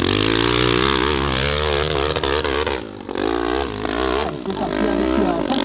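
Hill-climb dirt bike engine revving hard, its pitch rising and falling with the throttle, dropping off briefly twice around the middle.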